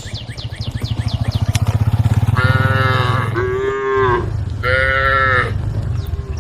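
Cattle mooing. A long, deep, pulsing moo lasts about three seconds, then three shorter, higher calls follow, the first overlapping its end.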